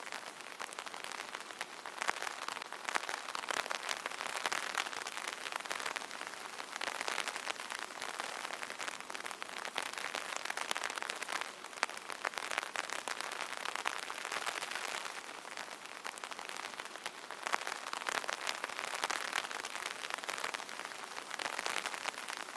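Light rain pattering on an open umbrella's fabric canopy: a dense, steady spatter of drop ticks that swells and eases every few seconds.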